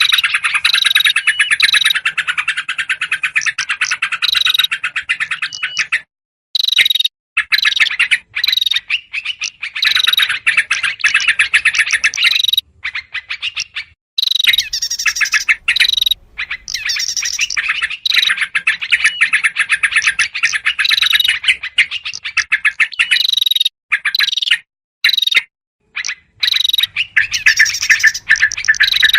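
Bird-lure recording of yellow-vented bulbuls in agitated, rapid chattering calls, mixed with other small birds such as prinias. The chatter runs in long dense runs broken by several sudden cuts to silence where the recording is spliced.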